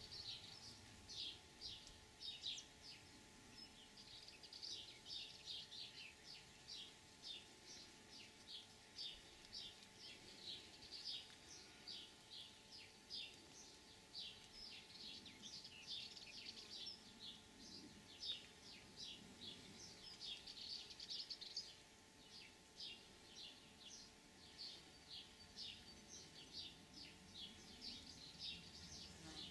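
Small birds chirping faintly nearby, a quick, uneven series of short high notes, a few each second.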